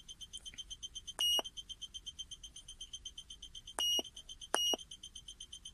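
Electronic beeping: a fast, steady train of short high beeps, about eight a second, with three longer, louder beeps over it a little over a second, nearly four and about four and a half seconds in.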